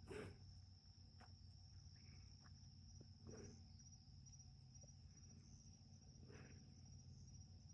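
Crickets trilling: a faint, steady high-pitched chirring, with a low hum underneath and a few soft rustles near the start, about three seconds in and about six seconds in.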